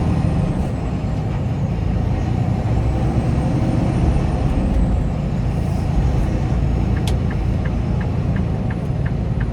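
Semi-truck engine running with a steady low rumble. About seven seconds in, a regular light ticking starts, roughly three ticks a second.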